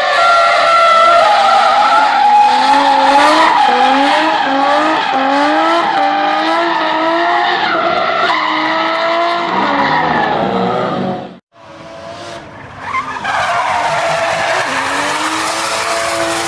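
Drift car's engine at high revs, its pitch rising and falling again and again, over tyres skidding and squealing. About eleven seconds in the sound cuts out abruptly and picks up on another car's engine holding a steadier pitch with tyre noise.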